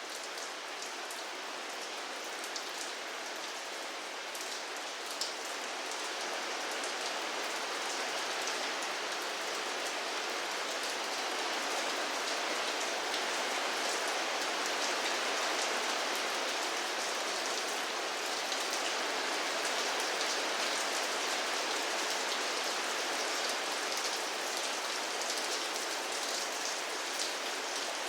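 Steady rainfall, an even hiss with many small drops ticking on a surface, growing slightly heavier about six seconds in.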